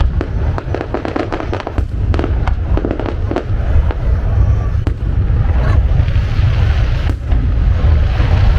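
Fireworks display: dense crackling from many small bursts in the first few seconds, thinning out later, over a continuous low rumble of booms.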